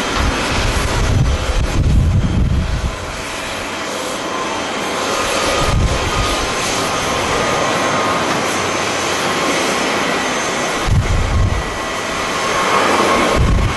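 Jet airliner engines running with a steady rush and faint whining tones, while gusts of wind buffet the microphone in low rumbles several times.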